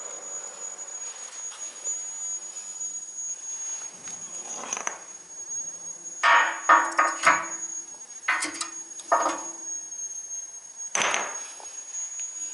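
Irregular clusters of sharp metallic knocks and clanks, some ringing briefly, loudest a little past the middle, over a steady high-pitched tone.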